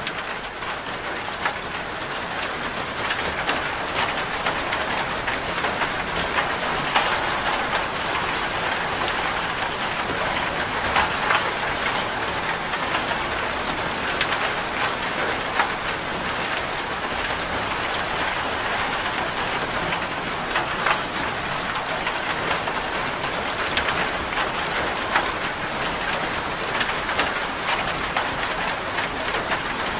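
Steady rain, an even hiss dotted with many small sharp drop ticks.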